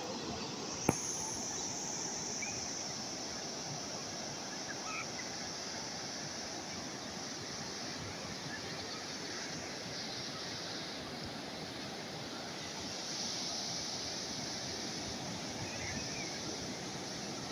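Calm sea waves washing steadily, swelling a little now and then, with one sharp click about a second in.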